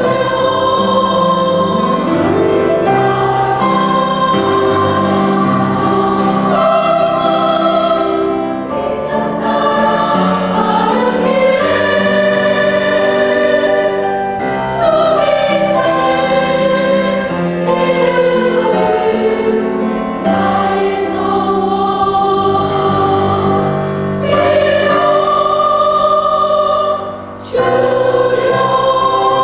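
Buddhist temple choir singing a choral piece in sustained, held chords, with a brief breath between phrases near the end.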